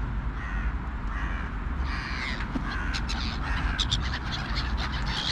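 Crows cawing, several harsh calls in a row that grow busier after about two seconds, over a steady low rumble.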